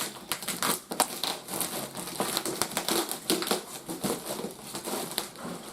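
Toy packaging being handled and pulled apart: dense crinkling and crackling with many sharp clicks.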